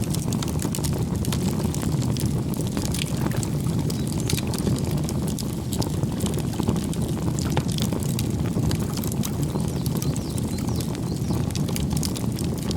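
Wood campfire burning, with many irregular sharp crackles and pops over a steady low rush of flame.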